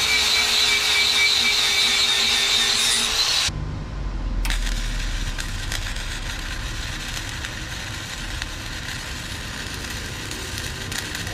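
Shop power-tool work: a loud, steady grinding whine for about three and a half seconds, then after an abrupt cut a quieter, even hiss over a low hum.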